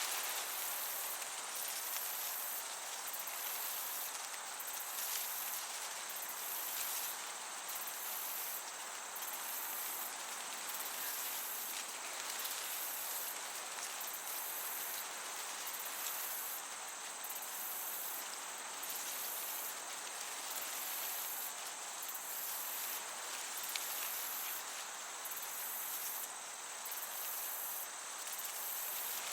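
Crickets chirring high and steadily, the trill breaking off about once a second, over an even hiss of a gentle breeze in a summer meadow.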